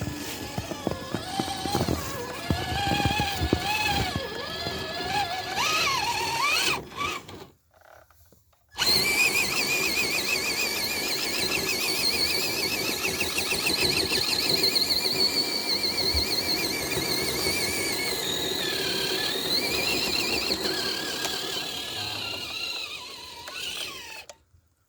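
Electric motor and gear drivetrain of a radio-controlled crawler truck whining, the pitch wavering and rising and falling with the throttle, with clicks and rattles over the first few seconds. The sound drops out for about a second near eight seconds in, then runs on steadily.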